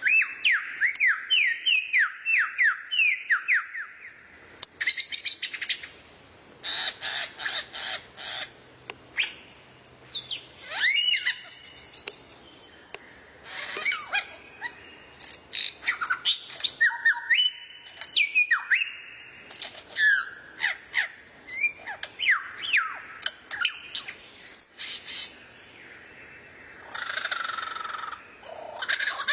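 Recorded songbird song: a fast, varied string of chirps and whistled slurs, opening with quick repeated downward-sweeping notes and broken by short buzzy rattles.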